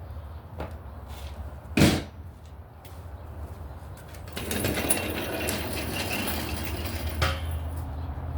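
Workshop handling noises under a car on a lift: a single sharp knock about two seconds in, then from about four seconds in several seconds of clattering and scraping, as parts and tools are moved and handled, over a steady low hum.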